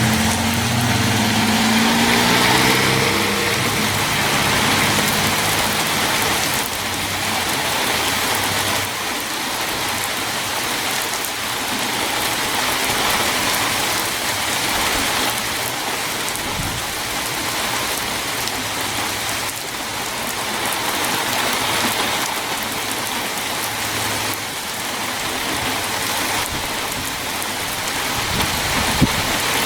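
Heavy rain pouring down steadily, an even hiss throughout.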